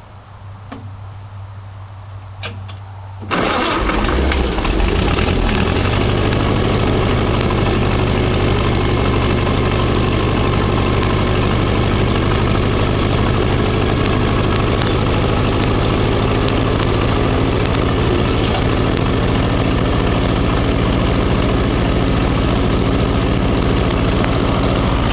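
1956 Farmall Cub's four-cylinder flathead engine on a cold start: a low hum for about three seconds, then the engine catches suddenly and runs loud and steady.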